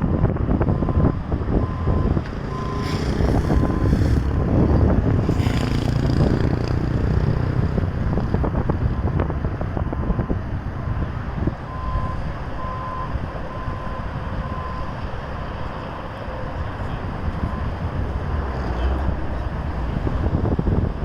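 Vehicle engines and traffic running, with wind buffeting the microphone. A steady on-off beep comes in for the first few seconds and again about halfway through.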